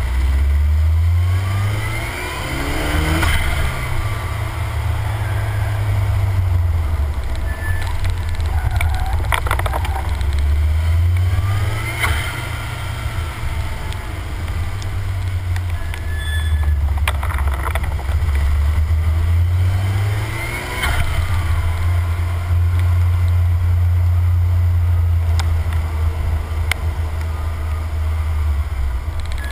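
Car engine driving hard on a winding road, its pitch stepping up and falling back several times as it revs through the gears, over steady wind and tyre noise, with a few sharp clicks.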